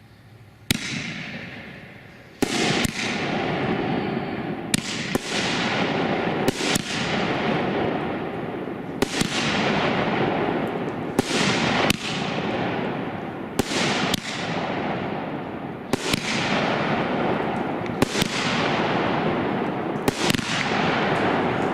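Shogun consumer fireworks cake firing. After a single bang under a second in, a dense crackling takes hold and runs on, broken by sharp bangs every second or two.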